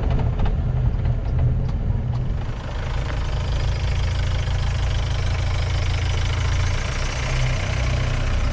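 Safari vehicle's engine running steadily with a low rumble, a few light rattling clicks in the first couple of seconds, and more road or wind noise coming in a few seconds in.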